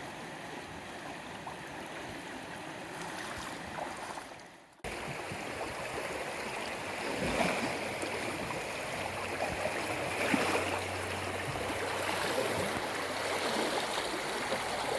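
Small upland stream running over rocks, a steady rush of water. The sound dips and cuts about five seconds in, then the rushing water goes on a little louder.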